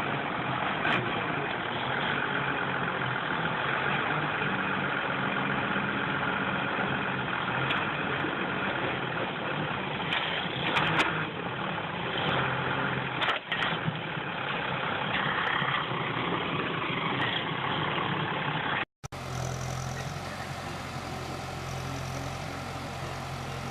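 Engine running steadily, with a few sharp knocks partway through; about 19 seconds in the sound cuts to a different engine running with a steady low hum.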